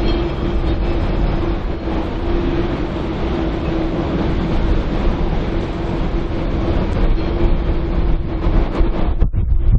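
Strong gusty wind rumbling on the microphone over a steady droning hum, with the rumble swelling near the end.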